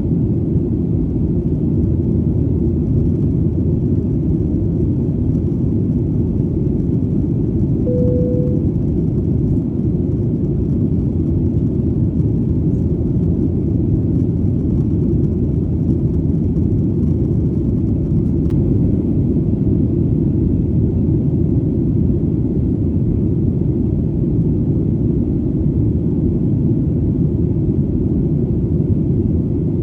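Steady low rumble of an airplane in flight, the engine drone heard as a constant deep hum. One brief tone sounds about eight seconds in.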